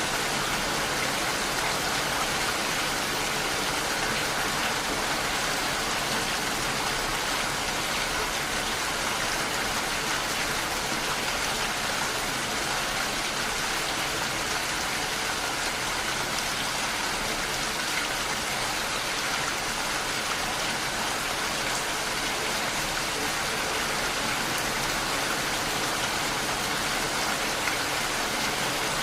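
Steady rain falling, an even hiss of drops with fine pattering.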